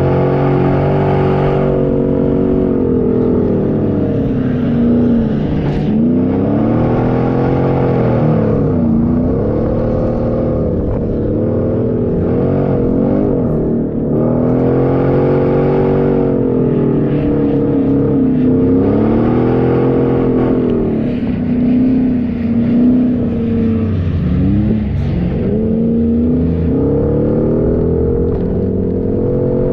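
Off-road 4x4 engine driving in desert sand, the revs rising and falling over and over, every couple of seconds.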